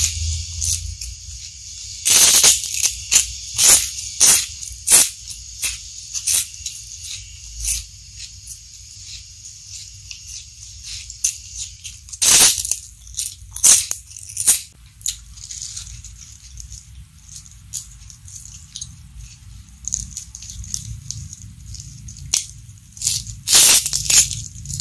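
Close-miked chewing of crisp raw lettuce and fried food: bursts of sharp crunches and wet mouth clicks. The crunching comes in clusters about two seconds in, around the middle, and again near the end, with softer chewing between.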